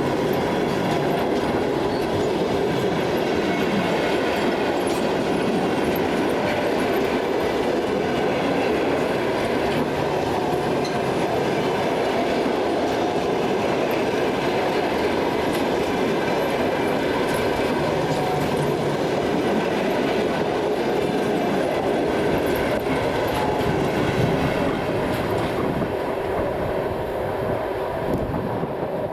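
Passenger coaches of an arriving express train rolling past, wheels clattering over rail joints with a faint high squeal from the wheels. The sound is steady and eases slightly near the end.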